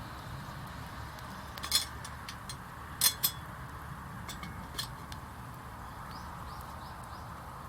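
Cooking utensils clinking against cookware four times, sharp and brief, two of them close together about three seconds in. Faint bird chirps sound near the end.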